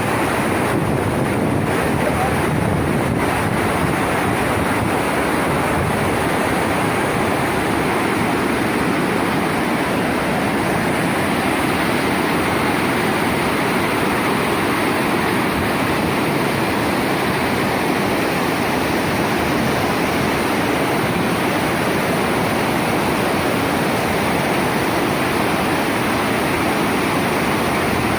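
Floodwater rushing in a flash flood: a loud, steady, even rush of water that does not change.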